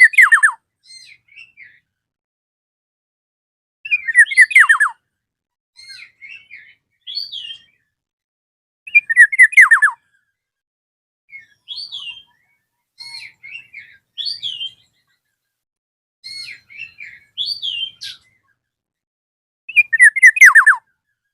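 Black-naped oriole (kepodang emas) calling: a loud phrase of quick whistled notes falling in pitch, about a second long, given four times, with softer short whistled notes in between.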